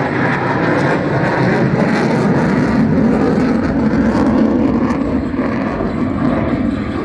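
Loud, steady jet roar from an F-22 Raptor's twin Pratt & Whitney F119 turbofan engines during its flying display.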